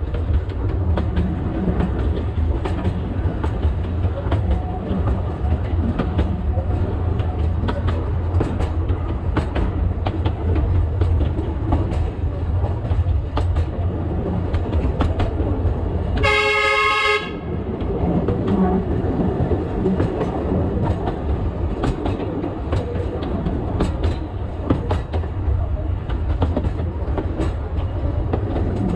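Alishan Forest Railway narrow-gauge train heard from the cab, running with a steady low rumble and a string of wheel clicks over the rail joints. Its horn sounds once for about a second past the middle.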